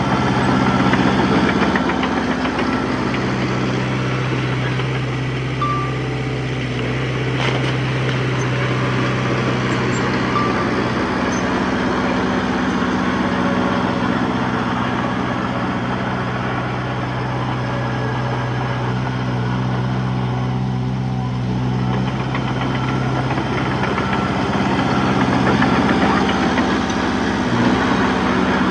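Diesel engine of earth-moving machinery running steadily at a low, even speed, a little louder near the end.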